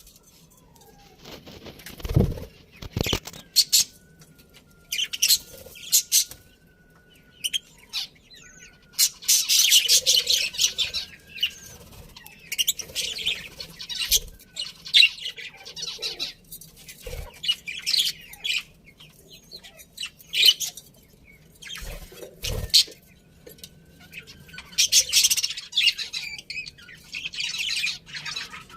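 A colony of budgerigars chirping and chattering in repeated bursts, with a few short low thumps among the calls.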